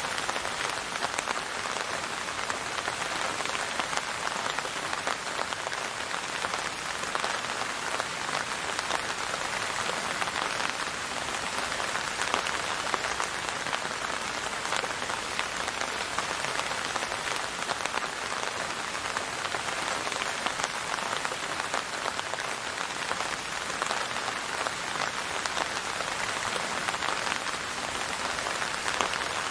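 Steady rain falling on a surface, a dense even patter of many drops with no music or thunder.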